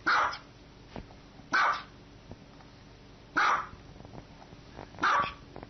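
Small white dog barking: four single sharp barks, evenly spaced about a second and a half apart.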